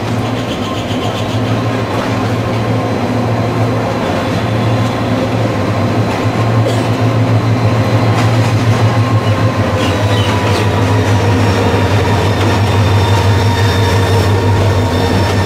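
Diesel locomotive engine running with a steady low drone as it hauls a passenger train past at walking pace, growing slightly louder as it comes close, with a few clicks from the wheels on the track.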